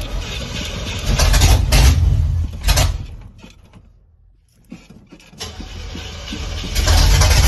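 A truck's starter motor cranking the engine over as it struggles to start, in two long attempts with a quiet pause of about two seconds between them; the second attempt grows louder near the end.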